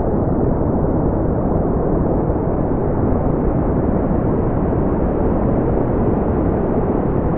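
Steady brown noise: an even, deep rumbling hiss with most of its energy in the low end and little above a couple of kilohertz.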